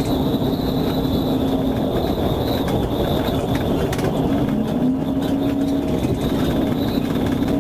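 Steady loud vehicle noise, a continuous roar with a droning hum that drifts slightly in pitch.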